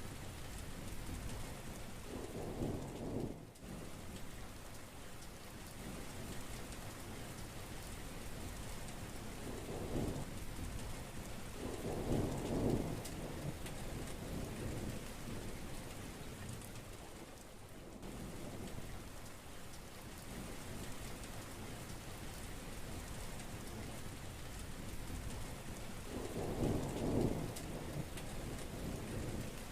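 Heavy rain falling steadily, with thunder rumbling several times: a short roll a couple of seconds in, a longer one from about ten seconds in, and another near the end.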